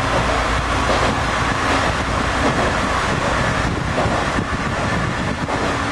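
Diesel railcar running at speed through a tunnel: a steady noise of engine and wheels on the rails, closed in by the tunnel walls.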